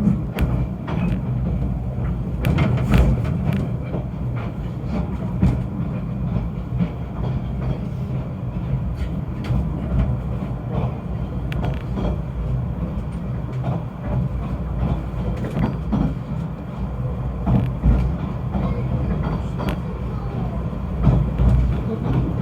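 Snowdon Mountain Railway train running: a steady low rumble with irregular clicks and knocks from the running gear.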